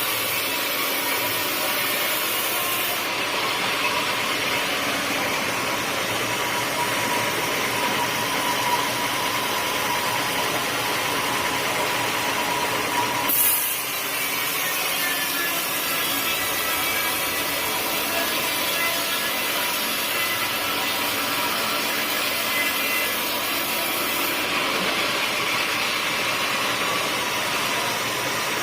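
Sawmill blade cutting steadily through a teak stump, a continuous sawing noise with a faint steady whine. A brief louder burst with a short dip comes about halfway through.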